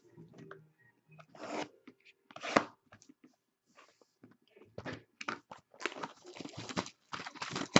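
Plastic packaging of trading-card boxes and packs being torn open and crinkled: irregular crackling and tearing, scattered at first and nearly continuous over the last few seconds.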